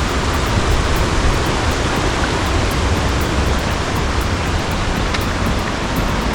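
Steady rushing of water falling over a small waterfall.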